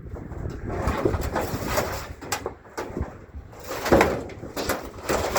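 Irregular knocks, scrapes and rattles of scrap metal being handled, with a louder clatter about four seconds in and another near the end.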